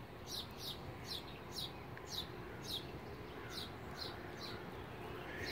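A bird calling faintly: a run of short, high chirps, each dropping in pitch, about two a second.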